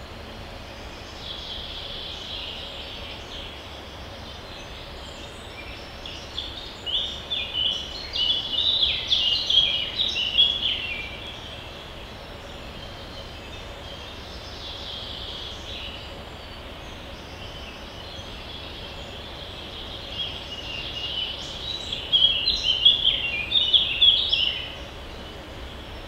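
A songbird singing two long phrases of rapid, choppy high notes, each about five seconds long. The first starts about six seconds in, the second about twenty seconds in, over steady low background noise.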